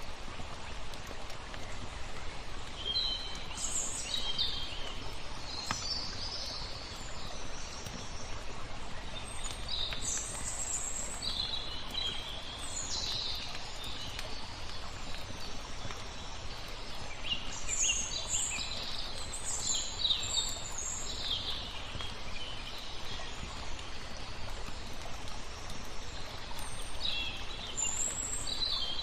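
Small birds chirping in repeated short bursts over a steady wash of flowing water, with faint crackles from a wood fire.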